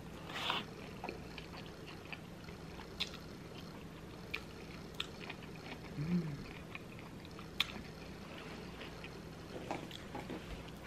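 Close-up chewing and scattered wet mouth clicks from someone biting into and eating a deep-fried, crab-and-cream-cheese-stuffed jalapeño. A short hummed "mm" comes about six seconds in.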